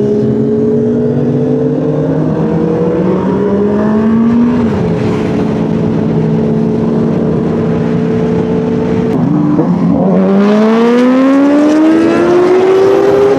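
Kawasaki superbike engines running at speed: steady, with a drop in pitch about four and a half seconds in, a brief dip near ten seconds, then a long rising rev as the bike accelerates hard to the end.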